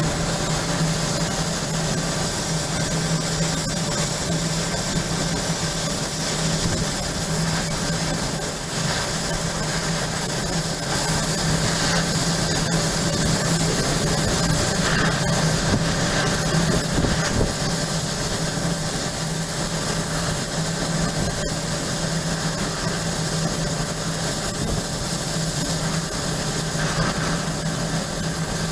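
Steady machinery noise: a constant low hum under an even hiss, unchanging throughout.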